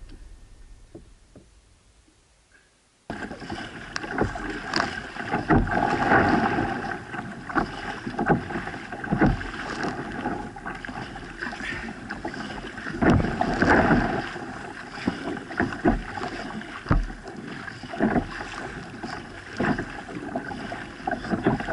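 Music fading out, then a kayak on the water: water splashing and slapping against the hull in irregular bursts, several each second at times, over a steady rush of water noise.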